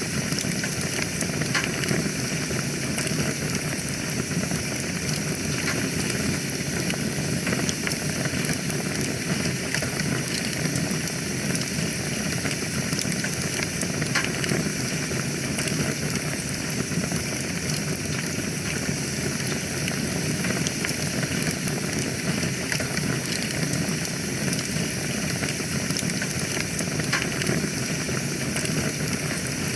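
Wood fire burning in a fireplace: a steady hiss with scattered small crackles and pops.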